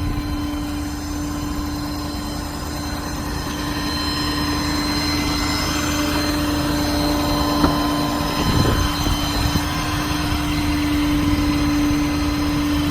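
A 6.7-litre diesel bucket truck running with its PTO engaged, with a steady whine from the hydraulics as the boom is lowered. A single light knock comes about two-thirds of the way through.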